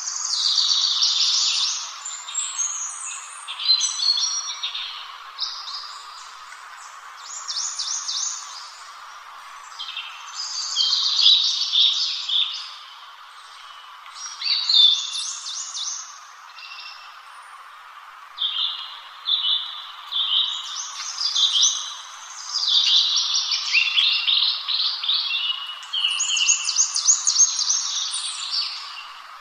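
A songbird perched and singing short, varied, high chirping phrases, a new phrase every second or two with brief pauses between, over a faint steady hiss.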